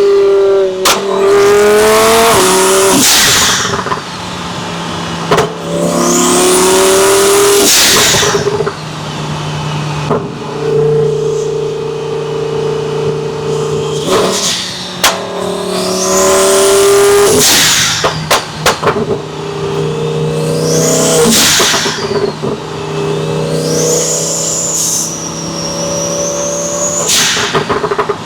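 Twin-turbo Lamborghini Huracan's 5.2-litre V10 pulling hard through the gears several times, each a rising engine note that cuts off suddenly, with steadier running between pulls and short sharp cracks after some of them.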